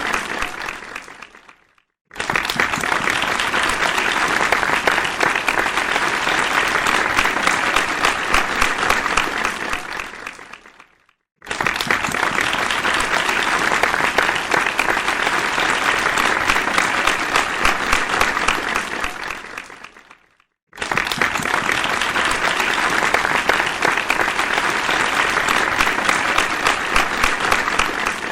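Crowd applause: dense clapping from many hands. A round dies away in the first second or two, then three more rounds follow, each starting suddenly, holding steady for about eight seconds and fading out into a short silence.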